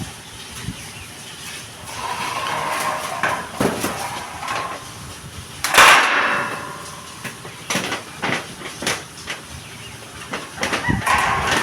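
Irregular knocks and clatter of hand work on metal during welding work, with stretches of buzzing noise and one louder, noisy burst about six seconds in.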